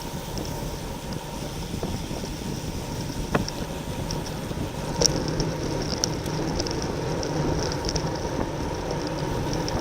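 Wind rushing over the microphone of a bicycle racer's onboard camera while riding in a criterium pack, with scattered light ticks and two sharper clicks about three and a half and five seconds in.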